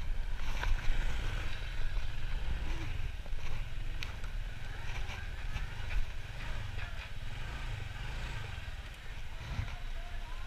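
Honda motorcycle engine running as the bike rolls slowly and pulls up, under a steady low rumble, with a few light clicks about 4 and 6 seconds in.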